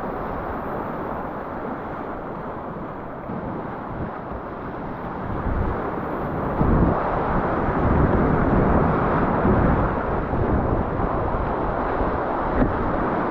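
White Salmon river water rushing steadily over rapids, growing louder about halfway through, with low wind rumble on the microphone.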